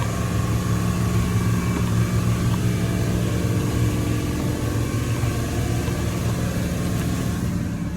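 A motor-driven shop machine running steadily, a hum with overtones under a wide hiss, dying down near the end.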